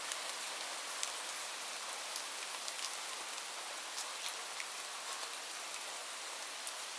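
Steady rain falling, a constant hiss with scattered sharp drip ticks.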